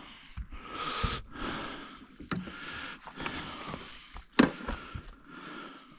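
Handling noises of fishing gear: irregular rustling and scraping with several knocks, the loudest a single sharp knock about four and a half seconds in.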